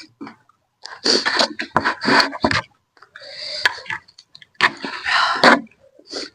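Close-up mouth sounds of eating noodles and soup: a run of about five noisy slurps and sharp breaths, each lasting roughly half a second to a second.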